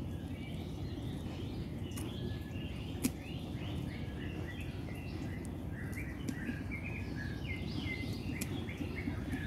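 Birds chirping and twittering over a steady low outdoor rumble, with one sharp click about three seconds in.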